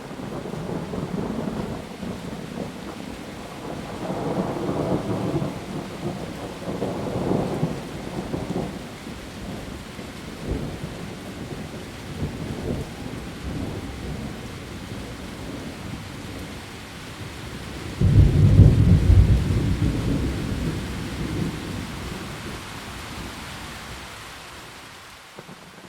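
Heavy rain falling steadily, with thunder: low rolling rumbles swell and fade through the first several seconds, and about two thirds of the way through a sudden loud thunderclap breaks and rumbles away over several seconds.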